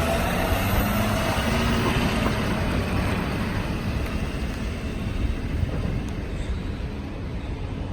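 Ford F550's 6.7-litre Power Stroke V8 diesel driving away, its low engine note fading gradually as the truck moves off.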